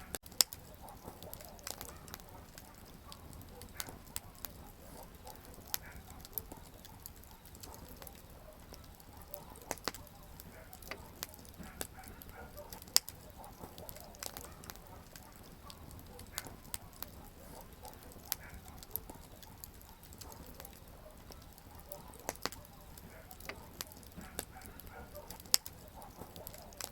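Wood campfire crackling: irregular snaps and pops of burning firewood over a soft, steady rumble of flame, with a few sharper, louder pops about half a second in, midway and near the end.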